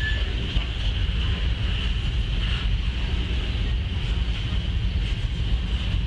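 Refrigerated boxcars of a freight train rolling past, a steady low rumble of wheels on rail with no breaks or clanks standing out.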